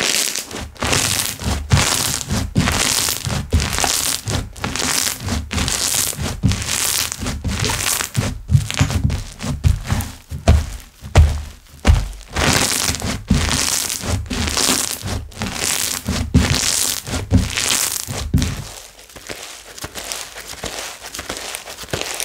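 Slime being squeezed, stretched and pressed in the hands: a steady run of sticky squelches, crackles and air-bubble pops with dull thuds, turning softer and finer near the end.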